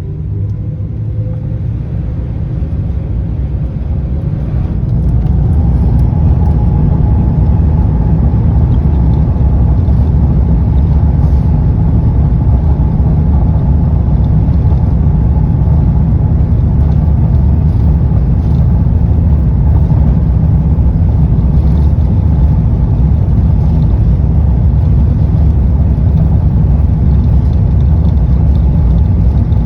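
Jet airliner engines spooling up to takeoff thrust: a whine rises in pitch and the sound grows louder about four to six seconds in. It then holds steady at takeoff power over a heavy low rumble through the takeoff roll.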